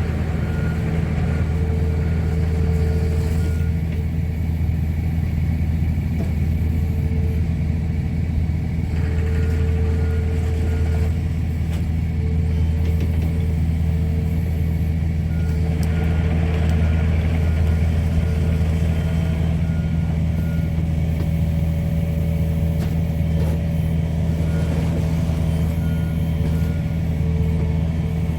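Diesel engine of heavy equipment running steadily, with a backup alarm sounding repeated short beeps over it.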